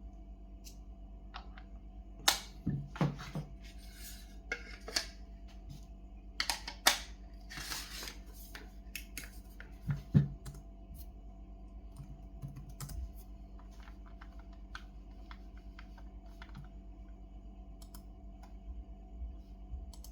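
Scattered clicks and taps from handling a Samsung NT950QAA laptop, its keys and case, with a short scrape about seven seconds in. The clicks are loudest in the first half and thin out towards the end, over a faint steady hum.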